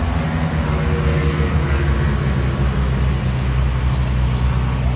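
Motorcycle engines running steadily with a low, even note.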